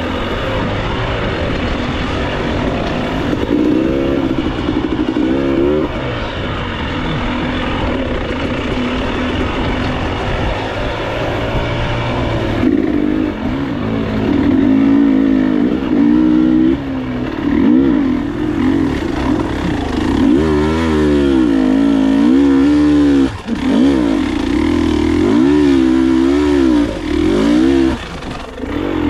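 Enduro motorcycle engine ridden off-road, revving up and down over and over as the throttle is worked, the revving busier and wider in the second half.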